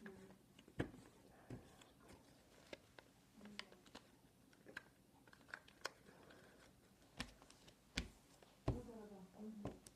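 A sheet of paper being handled, folded and creased by hand: scattered soft crinkles and light taps. A brief low voice sound, like a hum, comes near the end.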